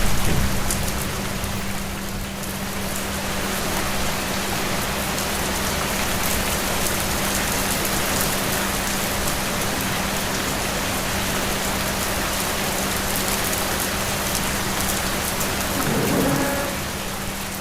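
Steady rain falling, an even hiss with scattered drop ticks, over a steady low hum; a brief pitched sound cuts through about sixteen seconds in.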